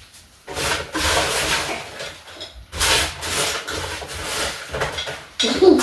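Rubbing, scraping noises in two stretches, broken by a short pause about two and a half seconds in.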